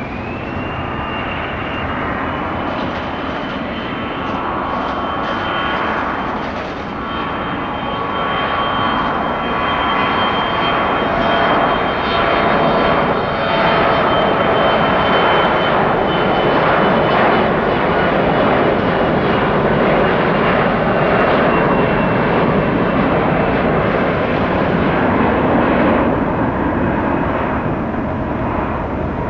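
Mitsubishi CRJ-900 regional jet's two rear-mounted turbofans at takeoff power: a steady high whine over a jet roar that grows louder through the first half, holds, and drops off a few seconds before the end.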